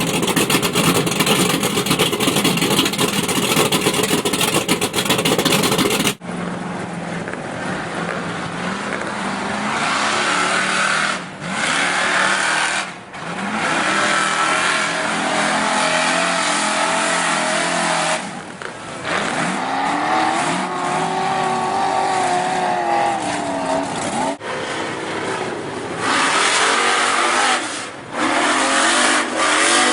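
Ford pickup truck engines running and revving in a string of cut-together clips, the pitch climbing and falling with the throttle, a clear rise and fall about two-thirds of the way through. The first six seconds are a loud, dense rushing noise before a sudden cut to the engine sound.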